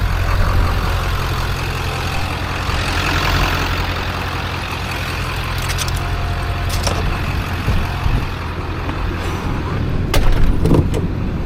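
Vehicle engine running with a steady low hum under broad road or engine noise, with a few sharp clicks or knocks near the end.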